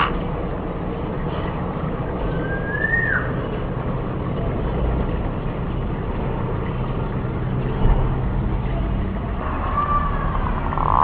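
Green pigeon giving a single whistled note that rises and then falls about two and a half seconds in, with a faint short whistle near the end. Both sound over a steady low rumble.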